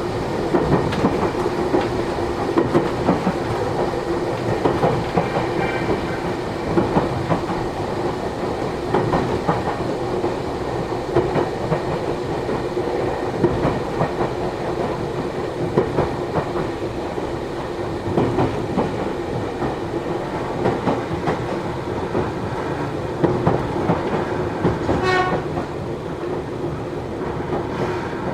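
Running sound inside a Matsumoto Electric Railway 3000 series electric train: a steady rumble of wheels on rail with frequent clicks from the rail joints and a steady hum underneath. A short, pulsing higher-pitched sound comes through about 25 seconds in.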